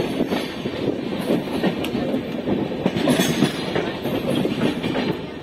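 A passenger train running through a yard with several tracks. The coach gives a steady rumble, with a rapid, irregular clatter of wheels over rail joints and points.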